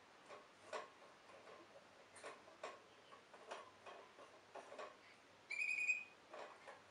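Faint, scattered small clicks and taps from a Waterslager canary's cage, then a single short, steady whistled note from the canary about two-thirds of the way through.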